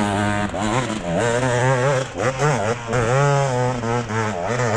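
Dirt bike engine revving hard, its pitch rising and falling again and again as the throttle is worked on a slippery hill climb.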